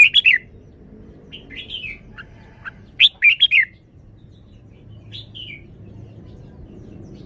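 Red-whiskered bulbul singing short, quick warbled phrases. Loud phrases come at the start and about three seconds in, with softer notes between them and a quieter phrase about five seconds in.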